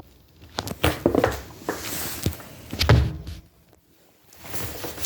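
Plaster being stirred by hand in a mixing container: a series of knocks and thunks, the heaviest about one second and three seconds in, with a brief pause near the end.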